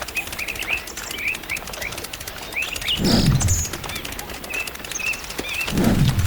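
Small birds chirping in many short, high calls. A low, falling swoop of about half a second comes about three seconds in and again near the end.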